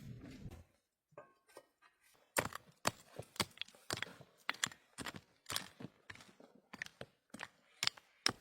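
A series of sharp knocks and taps starting a little over two seconds in, about two a second at an uneven pace, with silence between them.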